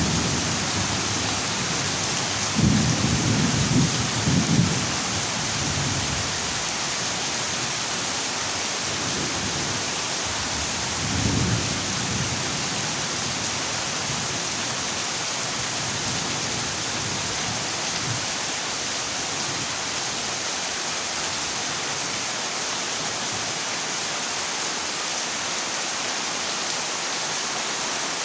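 Heavy rain falling on a corrugated zinc roof as a steady hiss. Low thunder rumbles sound over it between about two and five seconds in, and once more, shorter, about eleven seconds in.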